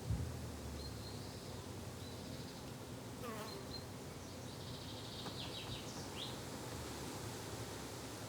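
Insects buzzing steadily in a garden, with short bird chirps and trills scattered over the top and a brief low thump at the very start.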